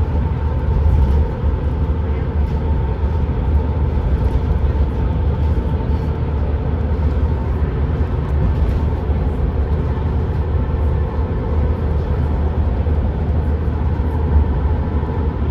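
Steady engine and road rumble heard inside a moving vehicle's cabin, deep and unbroken, with a faint steady hum above it.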